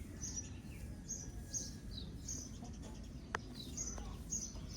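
A bird chirping over and over, short high notes about twice a second, over a steady low background rumble, with a single sharp click about three seconds in.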